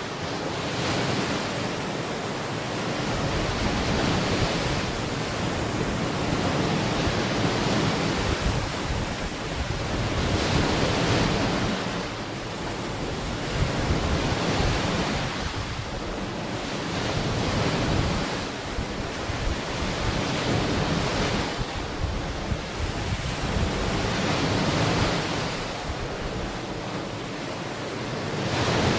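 Ocean waves breaking and washing onto a beach, a steady surf that swells and fades every few seconds, with wind buffeting the microphone.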